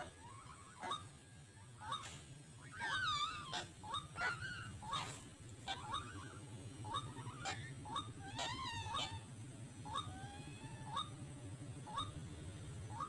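White-breasted waterhens calling: a short note repeated roughly once a second, with longer wavering calls breaking in over it a few times.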